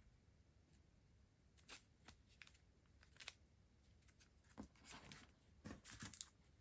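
Faint handling of stationery and its packaging: scattered light clicks and short rustles, busier near the end.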